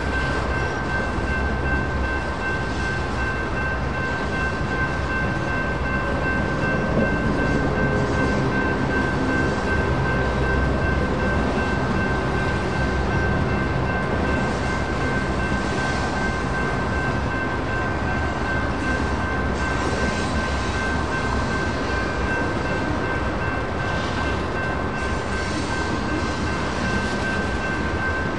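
Freight cars of a BNSF manifest train rolling over a grade crossing, a steady rumble of wheels on rail with some clickety-clack. Over it, the crossing's NEG electronic warning bell rings without a break.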